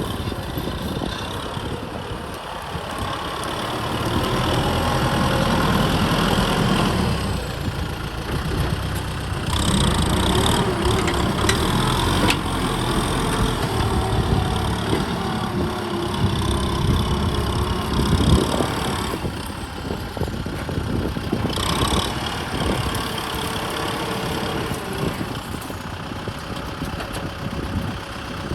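Kubota M6040 SU tractor's diesel engine running continuously, its loudness swelling and easing several times.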